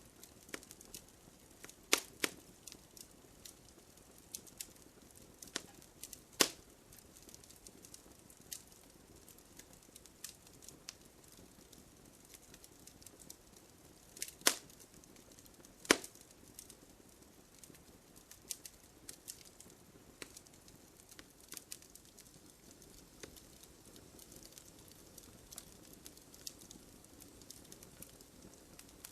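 Wood campfire burning with a soft hiss and irregular crackling, with a few sharp, loud pops from the burning wood about 2, 6, 14 and 16 seconds in.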